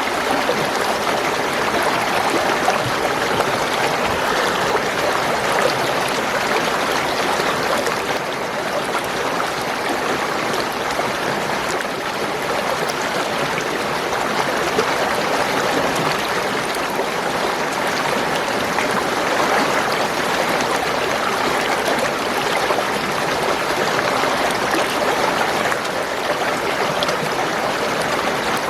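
Spring water flowing and gurgling in a steady, unbroken rush.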